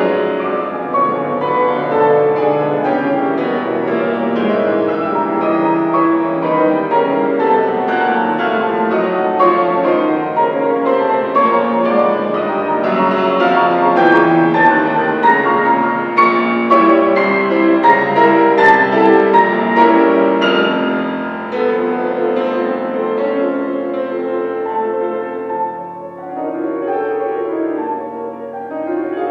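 Solo piano playing classical music in dense, continuous runs of notes, easing off about 26 seconds in before building again.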